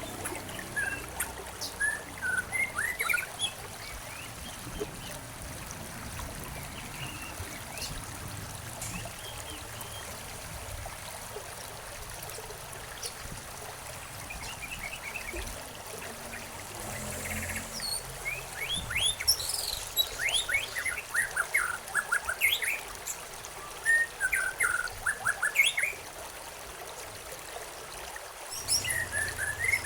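Several small songbirds chirping and twittering over a steady trickle of stream water; the chirps are sparse at first and come thick and fast in the second half.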